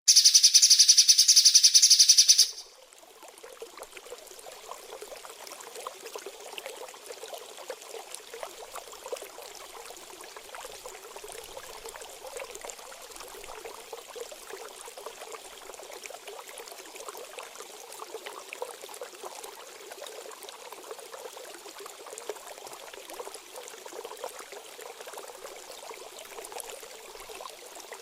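Rapid, dense, high-pitched small-songbird song for about two and a half seconds, cut off abruptly and followed by the steady trickle of running water, a stream recording played as 'water therapy' for cage birds.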